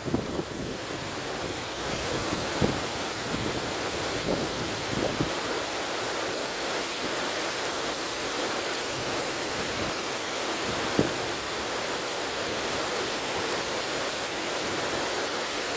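River water rushing steadily, with wind, and a brief louder splash-like spike about two-thirds of the way through.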